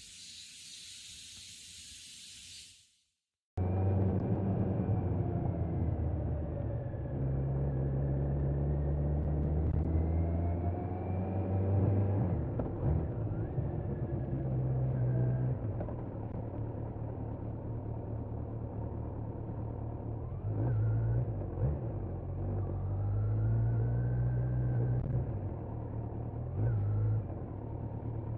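Kawasaki Z900's inline-four engine running while the motorcycle is ridden, a low rumble whose pitch steps and glides up and down with the throttle. It is preceded by a short high hiss that cuts off about three seconds in.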